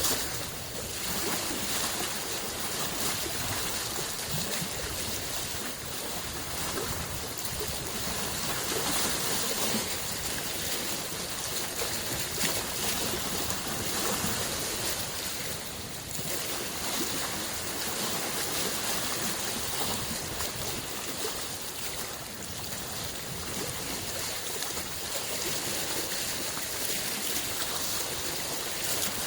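Small lake waves lapping and washing on the shore, a steady watery wash that swells and eases every few seconds.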